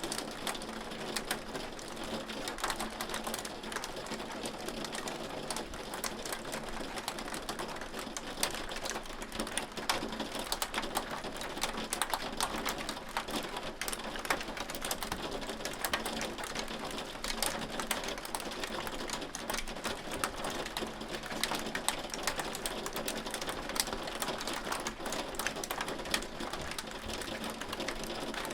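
Hail falling steadily: a dense, continuous patter of many small hard clicks and ticks from hailstones striking, over a steady hiss.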